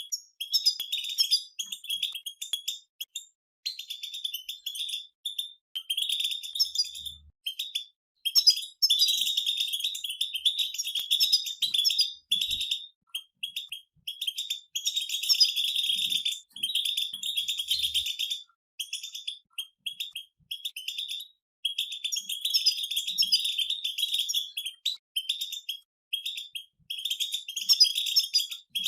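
A group of European goldfinches twittering together: fast, high chattering song in runs of a few seconds, broken by short pauses.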